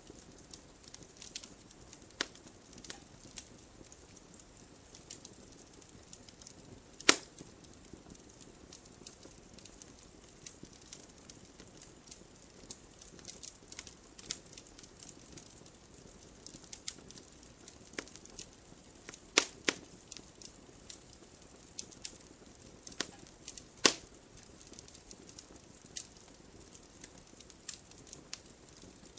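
Wood fire crackling: irregular sharp pops and snaps over a faint steady hiss, with a few louder pops about 7, 19 and 24 seconds in.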